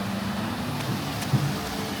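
Steady rushing of a waterfall, with one short knock about a second and a half in.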